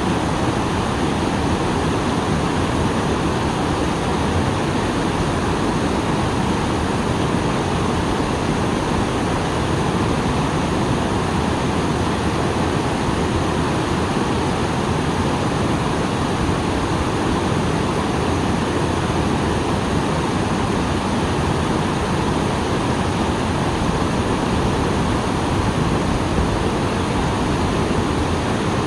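Small waterfall rushing steadily after rain, an even, unbroken roar of falling water.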